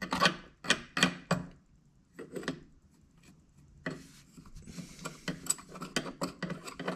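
Scraping and rubbing sawdust and oily gunk out of a chainsaw's bar-mount oiler area. There are four short strokes, a pause, two more, then a quick run of scraping with light clicks from about four seconds in.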